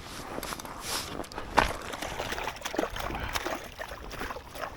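Water sloshing and splashing in an ice-fishing hole as a hooked northern pike is fought up through it. Irregular knocks come through, the sharpest about a second and a half in.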